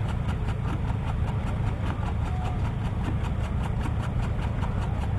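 A tractor engine idling steadily, its even, rapid firing pulses audible over a deep rumble.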